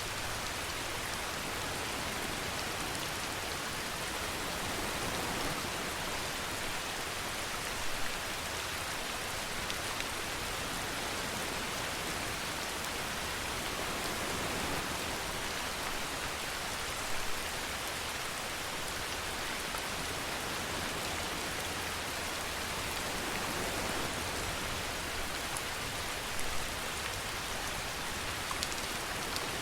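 Steady rainfall hissing and pattering on a surface, with a few brief louder drop hits about every nine seconds.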